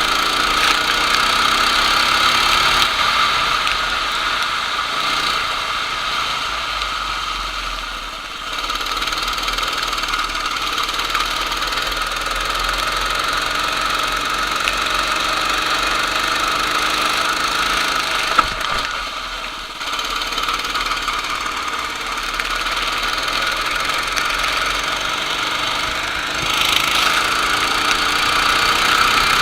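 Racing kart engine running hard and steady, easing off briefly twice, about eight and nineteen seconds in, then picking up again, with a sharp click just before the second dip.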